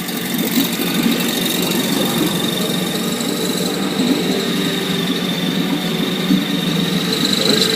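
15 HP Mercury outboard motor running steadily, with a thin steady high whine over the engine note.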